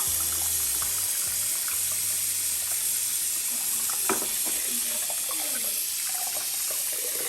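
Water running steadily from a tap into a sink, with a light knock about four seconds in.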